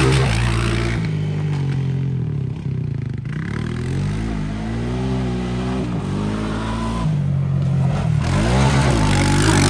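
Small off-road vehicle engines revving on a dirt track, their pitch repeatedly rising and falling with throttle changes.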